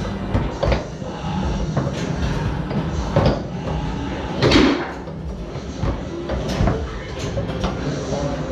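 Foosball rally on a Tornado table: the hard ball knocks against the players and the table walls, and the rods clack, in sharp irregular knocks. The loudest knock comes about four and a half seconds in.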